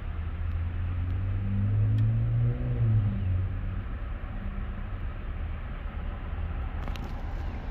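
A motor vehicle engine running with a low, steady rumble; its pitch briefly rises and falls about two to three seconds in.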